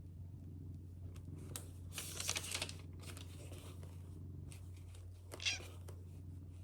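Rustling and crinkling, as of something being handled, over a steady low hum: a longer burst about two seconds in and a short sharp one near the end.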